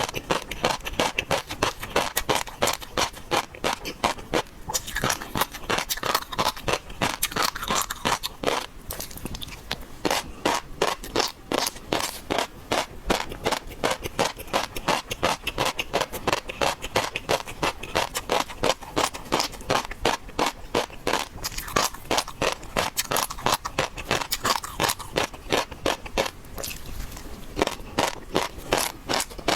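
Close-miked eating sounds: steady wet chewing, smacking and crunching of raw seafood, about two or three chews a second.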